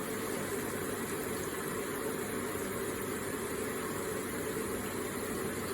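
Electric water feature with water flowing and splashing in a steady, even stream.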